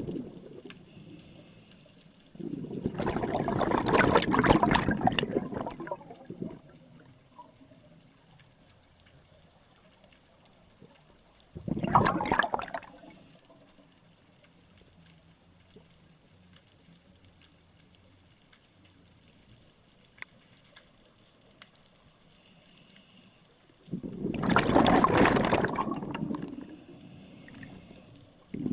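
Scuba diver's exhaled regulator bubbles rushing and gurgling past an underwater camera, in three bursts about ten seconds apart: two long exhalations and one short one. Faint scattered clicks sound in the quiet stretches between breaths.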